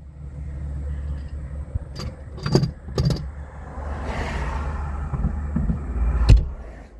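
Vehicle engine running with a steady low rumble. Several sharp metallic clicks come about two to three seconds in, and a louder one near the end.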